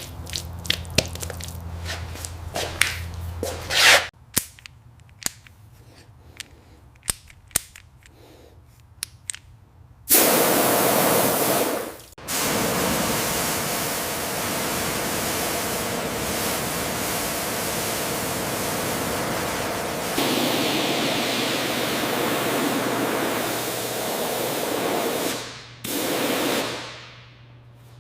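Scattered clicks with a low hum, then a quieter stretch with a few clicks; about ten seconds in, a pressure washer's water spray starts with a steady hiss, pauses briefly, runs on, and stops near the end after one short last burst.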